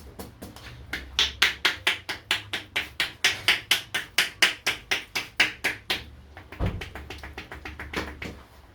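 Hands striking a head in an Indian head massage: rapid, even slaps and pops, about five a second, loudest through the middle and softer near the end, with one duller thump about two-thirds of the way through.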